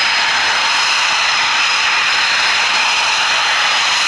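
Eurofighter Typhoon jet engines running, a loud steady rush of jet noise with a thin high whine held on one pitch.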